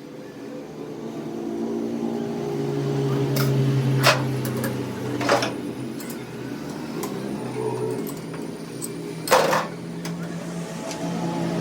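A motor running with a steady hum that swells and eases off, broken by four sharp knocks.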